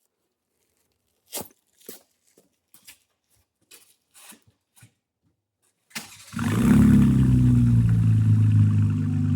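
A few scattered clicks and knocks, then about six seconds in a car engine starts and runs loud and steady through an exhaust that has no muffler fitted yet.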